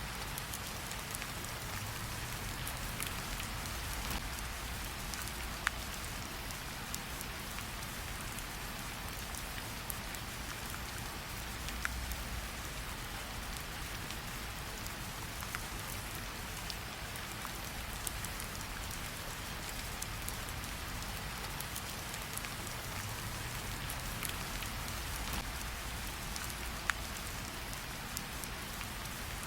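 Steady rain falling, mixed with a crackling campfire; a few sharp pops stand out, about three across the stretch, over a low rumble.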